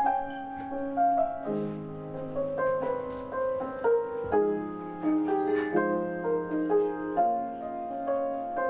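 A live gypsy rock band plays an instrumental passage with no vocals. Steady held chords change every second or so under a moving melody line.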